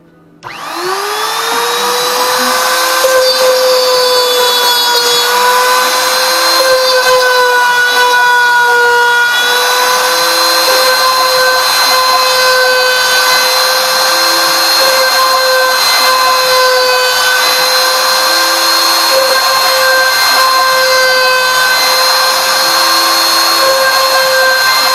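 CNC router spindle starting up about half a second in, its whine rising quickly, then running at a steady high pitch while cutting. The pitch sags slightly for a moment, and a short low hum comes back about every four seconds.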